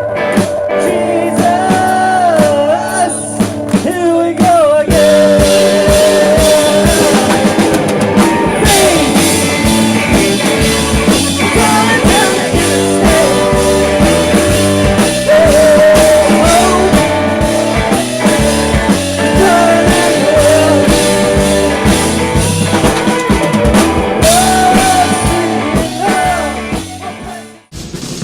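Rock band music: a drum kit beat under guitars and a wavering lead melody line. It cuts off abruptly near the end.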